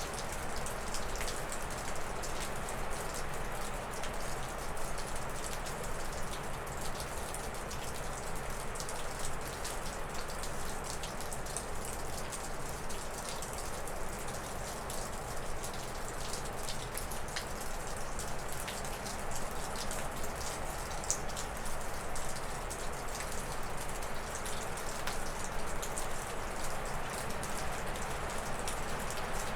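Wind blowing through spruce and birch trees, a steady rushing, with meltwater dripping off a roof as many small scattered ticks.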